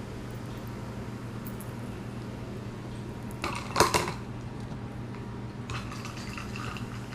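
Dishes and utensils clattering as they are handled: one louder clatter about halfway through, then a run of lighter clinks near the end, over a steady low hum.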